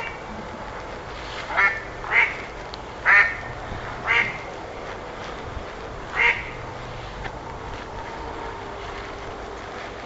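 Ducks quacking: about six short, separate quacks over the first six seconds, then a lull with only faint background sound.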